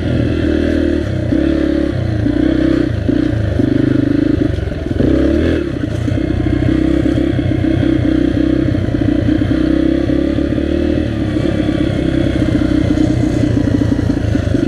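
Dirt bike engine running under way as it is ridden. Its pitch steps up and down over the first few seconds, then holds fairly steady.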